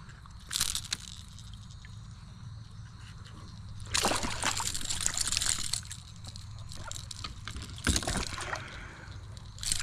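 Water splashing and sloshing in several bursts, the longest about four seconds in: an Australian bass kicking in the shallows while it is being unhooked and released.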